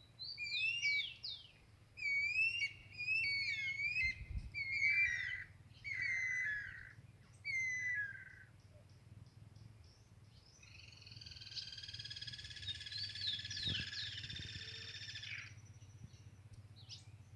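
Ultramarine grosbeak (azulão) singing short whistled phrases of sliding notes, about six in the first eight seconds. From about ten seconds in comes a long buzzy trill lasting about five seconds.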